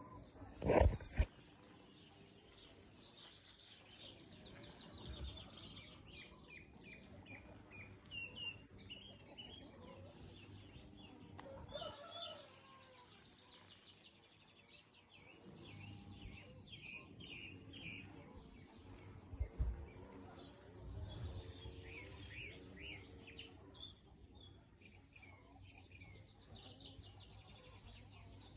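Small songbirds chirping and twittering in quick repeated calls throughout. There is a loud low thump about a second in and another about two-thirds of the way through.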